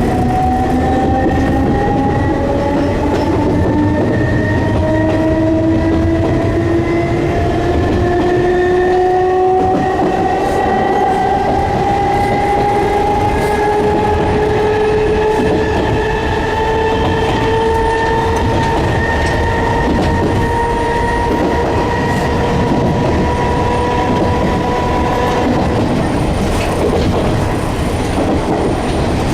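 Enshu Railway Type 30 electric train heard from inside the passenger car, running with a rumble of wheels on rail. Over it, a whine from the traction motors and gears rises slowly in pitch as the train gathers speed, then dies away near the end.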